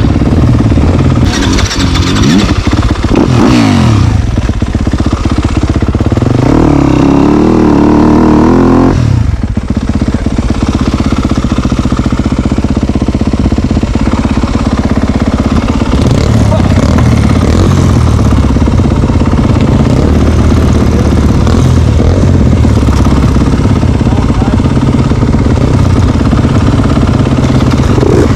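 Dirt bike engine running hard, the revs rising and falling as the throttle opens and closes, with one long climb in pitch that cuts off sharply about nine seconds in. Rattling clatter runs underneath.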